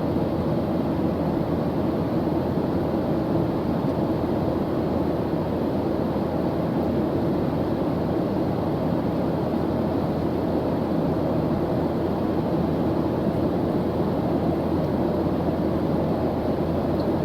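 Airplane engine droning steadily: an even, low rumbling noise with no changes.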